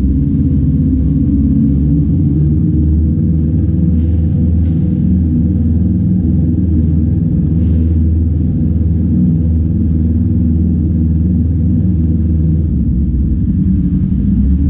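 Kawasaki Z400's parallel-twin engine running at a steady pace while the motorcycle is ridden, a loud, even low rumble heard from an on-bike action camera.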